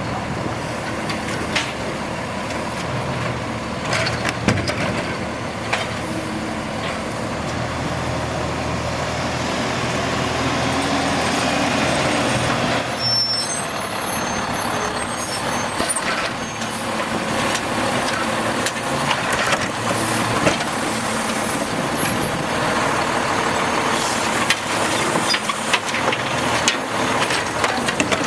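Automated side-load garbage truck's diesel engine running as the truck works, with occasional knocks and clanks.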